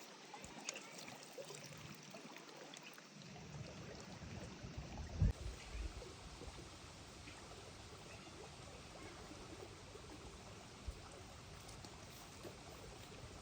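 Faint, steady trickle of flowing water, with a few soft clicks and one dull thump about five seconds in.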